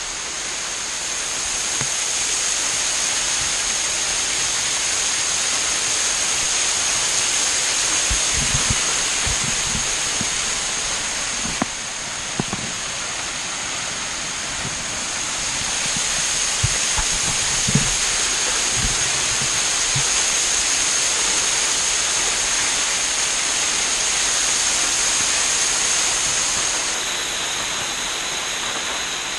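Waterfall pouring: a steady rush of falling water, with a few brief low thumps scattered through it.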